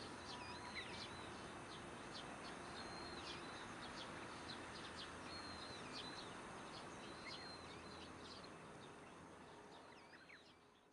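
Small birds chirping and calling over a steady outdoor background hiss at dusk, with many short rapid chirps and a few brief clear whistles. The whole scene fades out near the end.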